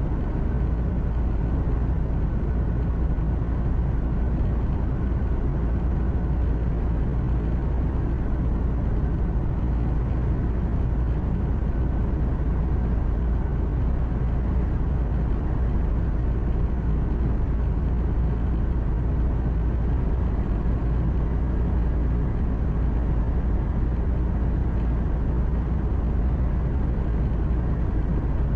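Truck's diesel engine and tyre-on-road noise heard from inside the cab while driving: a steady low rumble that holds even throughout, with no gear changes or bumps standing out.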